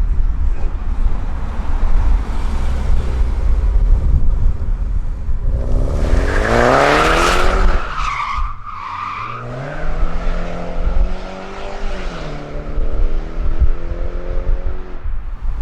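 Car accelerating hard past, its engine revving sharply upward with tire squeal at the loudest point. A second engine note then climbs and holds steady, with low wind rumble on the microphone throughout.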